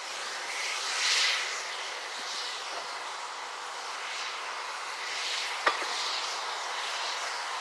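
LNER A1 steam locomotive 60163 Tornado on the move: a steady rushing hiss that swells and fades every second or so, with one sharp click about three-quarters of the way through.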